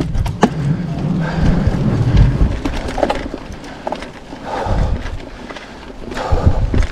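Mountain bike rolling over a trail bridge and rough ground: tyres thumping and the bike rattling over bumps, with a low rumble and a few sharp clicks at the start.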